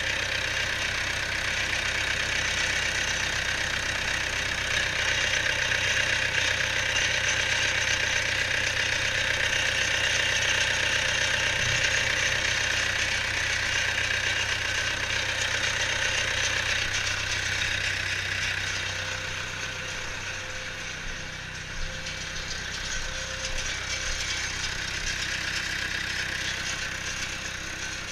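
International Harvester 844 XL tractor's diesel engine idling steadily, a little quieter in the last third.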